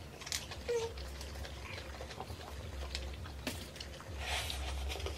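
Quiet eating sounds of people chewing food taken by hand, with scattered faint clicks and soft rustles.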